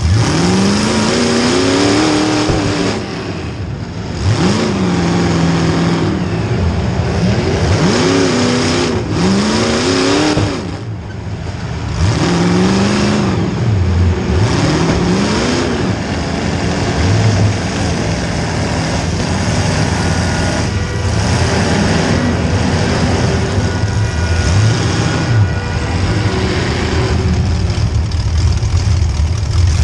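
Small-block Chevy V8 of a demolition derby car revving hard, its pitch climbing and falling again and again, with two brief lulls.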